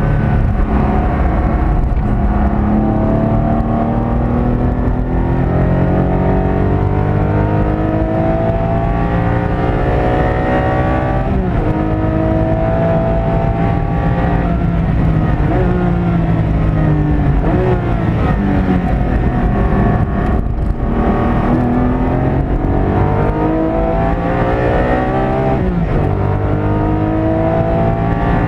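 Porsche 718 Cayman GT4's 4.0-litre flat-six engine, heard from inside the cabin, pulling hard on track: its note climbs in long rising sweeps and drops back several times at gear changes and braking, over a steady rush of tyre and road noise.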